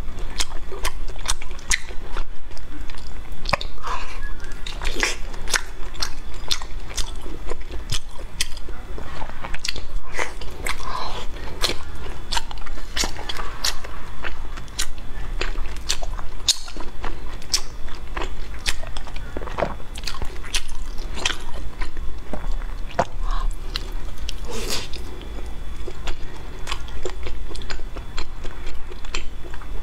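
Close-miked chewing and biting of soft mochi (fruit daifuku), with many sharp, irregular mouth clicks and smacks.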